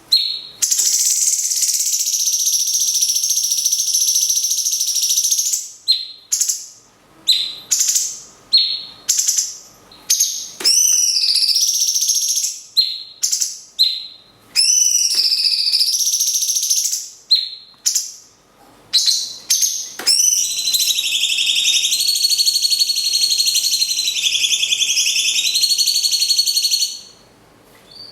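Cucak cungkok and lovebird singing against each other: long unbroken high trills lasting several seconds, with runs of short sharp chirps in between.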